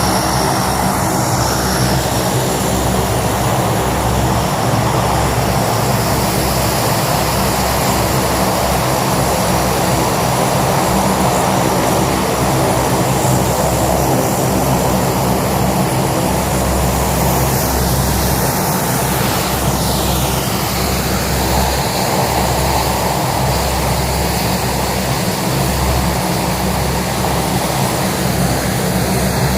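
Fixed-wing airplane engines running loudly and steadily, with a dense drone of even tones. About twenty seconds in, a higher sweeping tone passes through.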